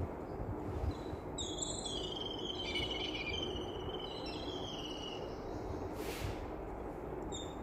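Birds chirping in a quick cluster of high calls in the first half, over a steady low background hum, with a short burst of hiss near the end.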